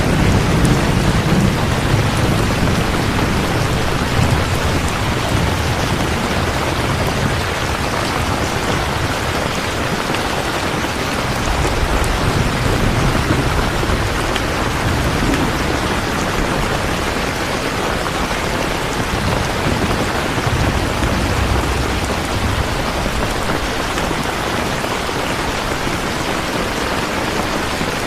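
Steady heavy rain falling, an even hiss of drops, with a low rumble swelling a few times underneath.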